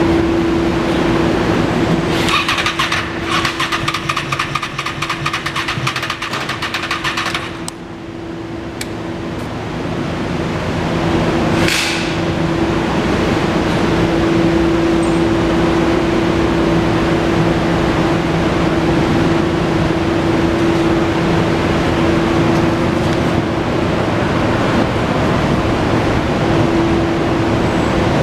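2002 Honda VFR800's V4 engine running at a steady idle. Between about two and seven seconds in, a fast rattle sounds over it.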